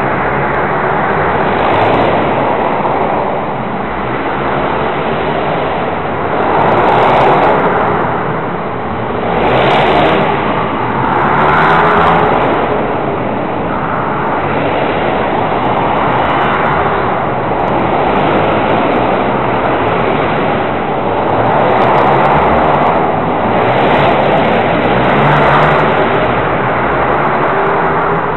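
Pit bike engine running hard, revving up and easing off again and again, with the loudness swelling and dropping every couple of seconds.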